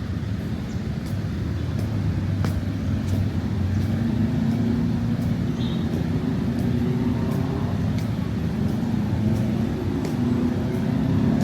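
Road traffic: a steady rumble of cars and motorbikes driving past, swelling a little as vehicles pass close by.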